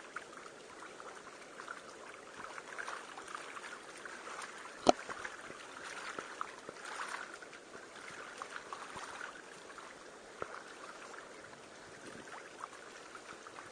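Water trickling and splashing around a canoe being paddled, with small scattered ticks and one sharp knock about five seconds in.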